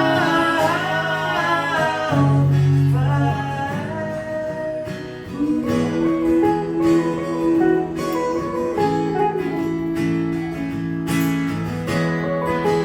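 Country-style song: a held sung note over acoustic guitar for the first few seconds, then an instrumental guitar passage.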